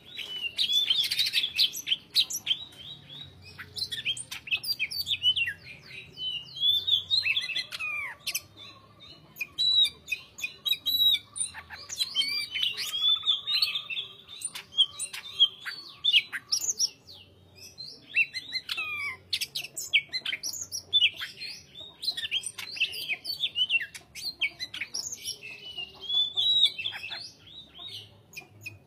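Green leafbird (cucak hijau) singing a fast, varied run of whistles and chirps in dense phrases with only brief pauses.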